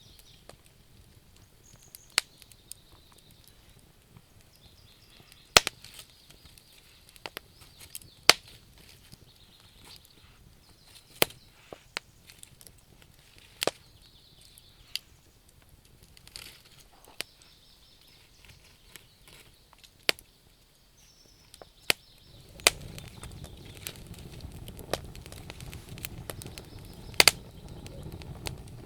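Wood fire crackling, with sharp pops at irregular intervals and faint high chirping behind them. About three quarters of the way through a louder low rushing comes up under the pops.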